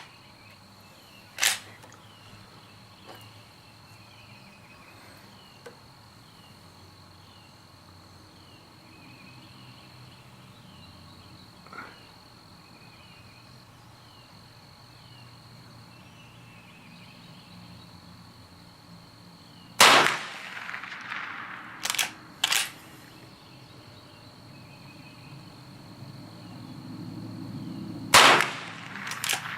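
Henry .22 lever-action rifle firing spaced single shots: one about a second and a half in, then a run of about five in the second half, with faint clicks between. A steady high insect buzz runs underneath.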